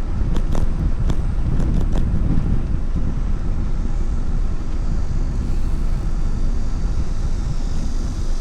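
Wind rushing steadily over the microphone on a moving bicycle, with a few sharp clicks or rattles in the first two seconds.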